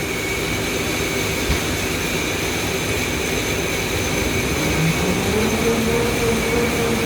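Automatic pull-out facial tissue folding machine running steadily, a constant high whine over its even mechanical noise. It runs on newly fitted SKF bearings, which are running fine.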